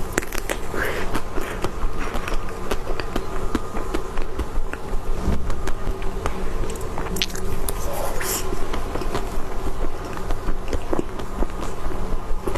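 Close-up eating sounds: irregular wet mouth clicks and smacks while chewing, over a steady droning hum.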